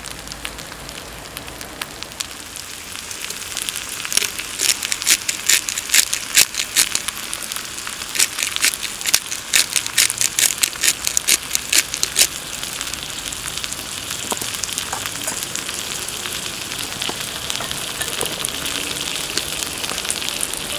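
Food frying in a hot pan, sizzling steadily. From about four seconds in it spits and pops sharply for several seconds, then settles back to a steady sizzle.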